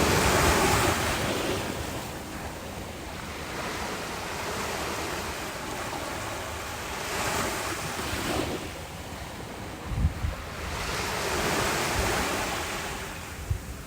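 Ocean waves breaking on a beach: the surf swells and falls back in three surges, the loudest right at the start. Wind buffets the microphone in short low thumps about two-thirds of the way through and again near the end.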